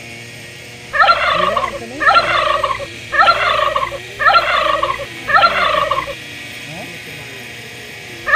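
A bird calling in a series of five loud, harsh bursts about a second apart, starting about a second in, with one more right at the end.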